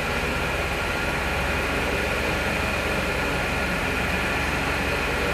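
A machine running steadily: a low, even mechanical hum with a faint steady whine above it.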